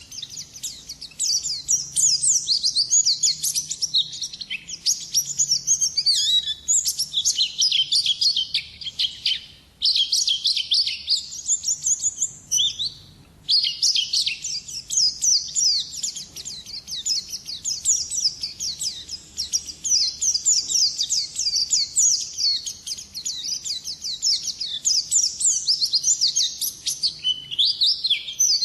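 White-eye (pleci) singing in the long, rapid 'ngalas' style: a near-continuous run of high-pitched twittering notes, broken by two short pauses about a third and halfway through.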